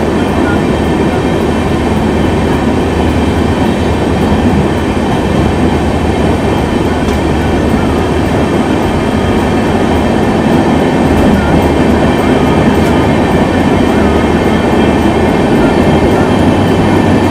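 LHB passenger coaches running through a concrete-lined railway tunnel, heard from an open coach doorway: a loud, steady rumble of wheels on rail that holds level throughout.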